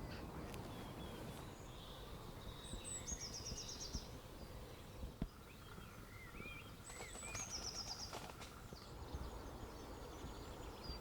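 Outdoor dawn ambience over a steady low background hiss. A small songbird twice sings a short, high phrase, about four seconds apart: a thin opening note followed by a quick run of repeated notes, with a few softer chirps between.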